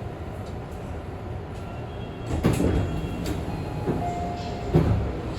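Tobu 50000-series train standing at a subway platform, a low steady hum with two sliding-door thuds, one about two and a half seconds in and another near the end, and a short beep between them.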